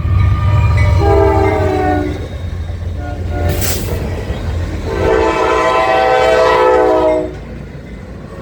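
Diesel locomotive air horn sounding a long chord, a brief short note, then a long held blast, over the low rumble of the train: the close of the long-long-short-long grade-crossing signal. A short burst of high hiss comes between the blasts.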